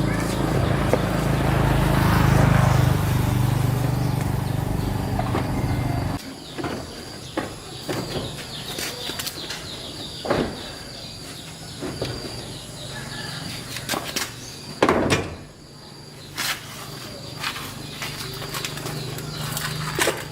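A motor runs steadily and stops abruptly about six seconds in. Scattered clicks and knocks follow.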